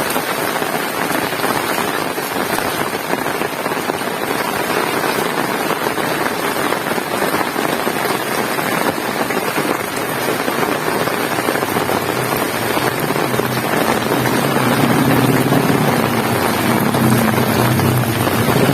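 Heavy rain falling steadily. About two-thirds of the way through, a low engine hum comes in and grows louder toward the end.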